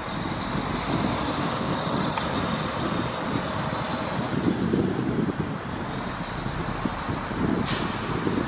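Steady city traffic noise, with a short hiss about three-quarters of the way through.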